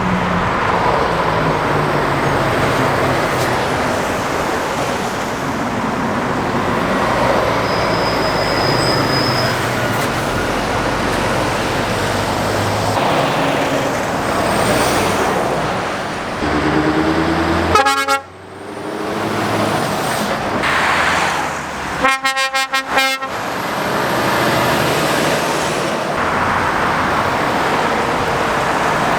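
Heavy road traffic passing, lorries and cars. Past the middle a vehicle horn sounds twice: first one short blast, then a quick run of toots a few seconds later.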